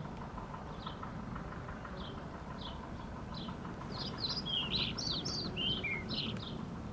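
A bird chirping: short, high, falling chirps about once or twice a second, breaking into a quicker run of chirps in the second half, over a steady low background rumble.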